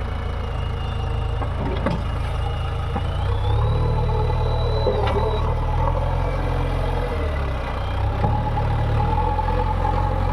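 Diesel engine of heavy earth-moving machinery running steadily, then pulling harder about three and a half seconds in, with a thin high whine that rises in pitch and stops a second or so later.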